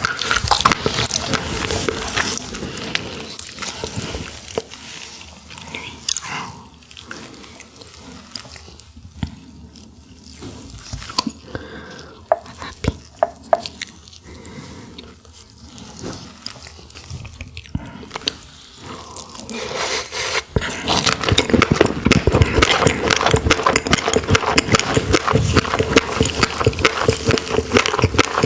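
Close-miked mukbang eating sounds of roe-filled sandfish: biting, chewing and wet mouth clicks. They are sparse and quieter through the middle and turn into a dense run of crackly chewing near the end.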